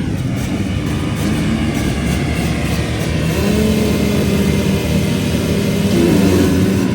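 Two-stroke motocross bike engine revving hard and running at high revs, with the pitch rising and falling as the throttle is worked.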